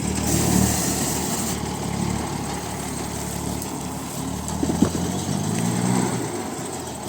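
Heavy 6x6 truck's engine running, its pitch rising and falling slightly a little past the middle. A short hiss near the start and a single sharp knock just before five seconds in.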